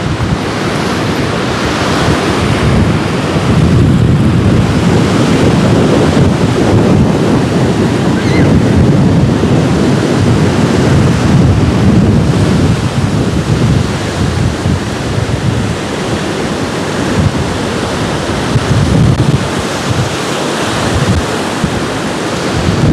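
Storm surf breaking on the beach, with strong gusty wind buffeting the microphone in a low, fluctuating rumble.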